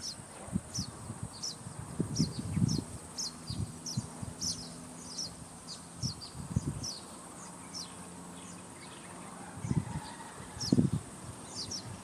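Bird chirping: a steady run of short, high, downward-slurred chirps, about two a second. Bursts of low rustling and thumps come in between, loudest near the end.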